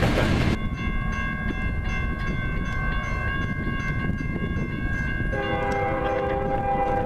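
Freight locomotive's air horn sounding one long chord of several notes over the low rumble of the train. A bit over five seconds in, the chord drops to lower notes.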